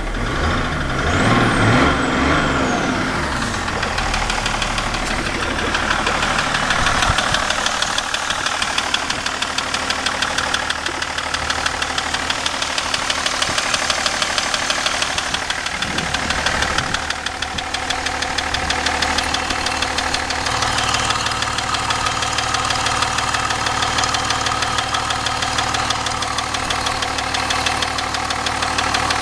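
BMW E38 730d's M57 straight-six turbodiesel running with a regular, evenly spaced knock whose cause is unknown to the owner. The revs briefly rise and fall in the first few seconds.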